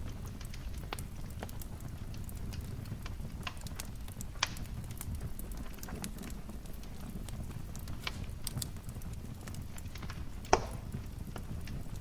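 Wood fire crackling over a low steady rumble, with scattered small snaps and two louder pops, one near the middle and one near the end.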